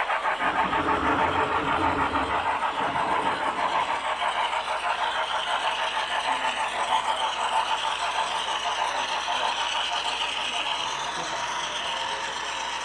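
A model train running on the layout, its wheels clicking in a fast, even rhythm over the rail joints with a low rumble for the first few seconds. It grows gradually quieter as it moves away.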